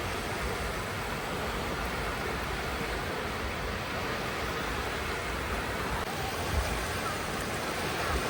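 Sea surf washing onto a shore: a steady rushing noise.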